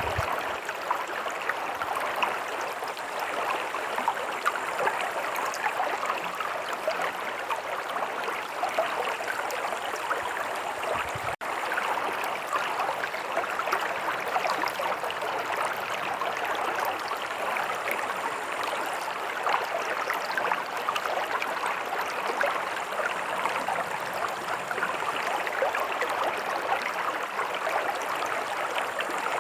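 A stream of running water flowing steadily, an even rush of water dotted with countless small splashes. The flow cuts out for an instant about eleven seconds in.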